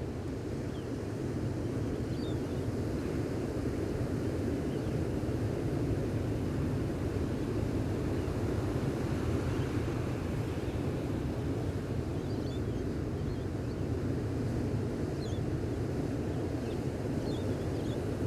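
Gentle ocean waves washing on a beach as a steady low rush, with a few faint, high bird chirps scattered through.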